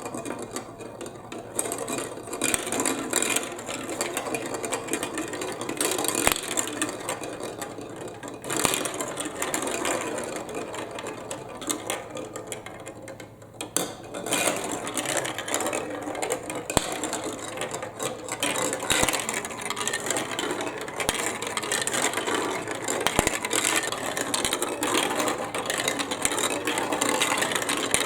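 Marbles rolling and clattering through a plastic building-block marble run: a dense, continuous rattle of small clicks that thins briefly about halfway through.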